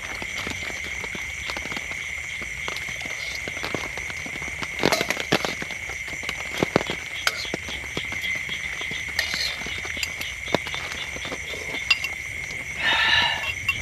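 A steady high-pitched chorus of calling animals, with scattered sharp ticks like drips. A short pitched call comes near the end.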